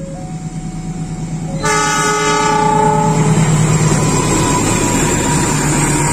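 KAI diesel multiple-unit passenger train approaching with a steady engine hum, growing louder. A loud chord-like train horn blast sounds about a second and a half in and lasts about a second and a half. The rumble and rush of the passing train follow.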